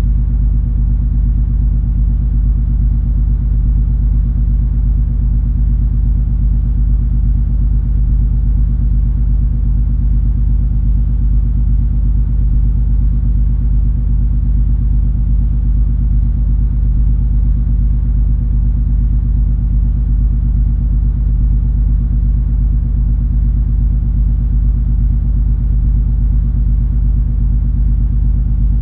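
Cruise ferry MS Color Magic's engines and hull giving a steady, deep rumble with a constant low hum, unchanging while the ship sails at cruising speed.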